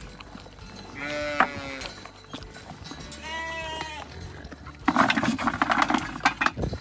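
Sheep bleating twice, each call short and wavering. About five seconds in comes a louder burst of rustling and clattering.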